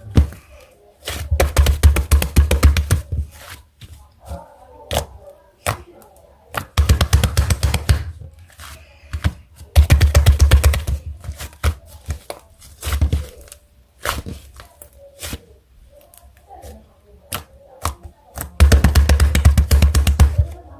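Close-miked ASMR handling sounds: five bursts of rapid, dense crackling with a low thump, each lasting one to two seconds, with scattered single clicks between.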